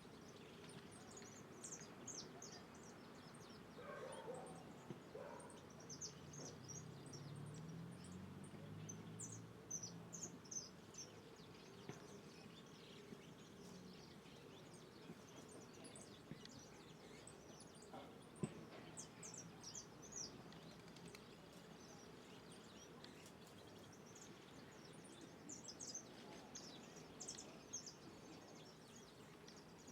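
Faint chirping of small birds: many short, high chirps scattered throughout, with a brief low murmur about a quarter of the way in.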